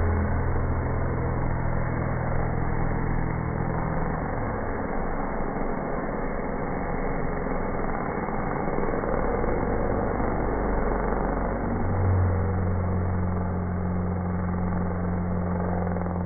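Vehicle engines running steadily, with a low even hum that drops away about four seconds in and comes back about twelve seconds in, over a steady wash of engine and outdoor noise.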